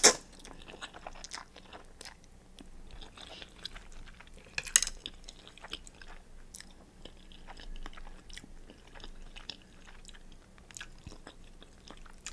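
A person chewing and biting food close to the microphone: a string of small sharp clicks and mouth sounds, with a louder bite about five seconds in.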